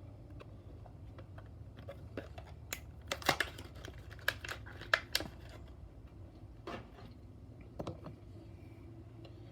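Scattered light clicks and crinkles of a carded diecast car's plastic blister pack being handled, bunched in a quick run about three to five seconds in and two more near the end, over a low steady hum.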